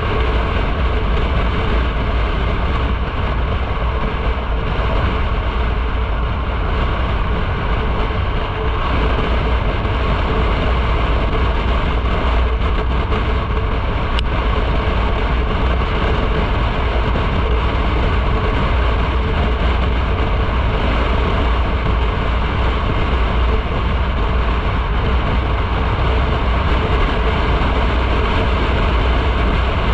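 Motorcycle riding at a steady speed: a constant rush of wind and road noise with the engine running underneath, heavy in the low end.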